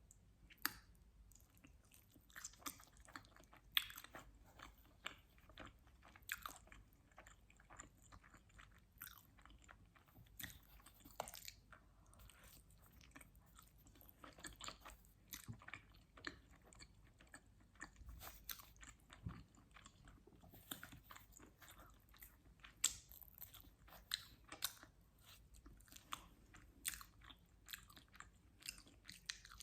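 Close-miked chewing and biting of pizza: irregular crisp crunches and wet mouth clicks.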